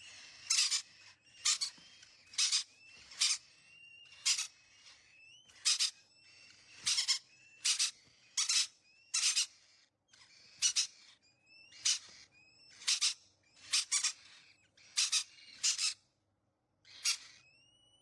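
Parrot giving repeated short, harsh screech calls, about one a second, with thin rising whistles between them and a short pause near the end.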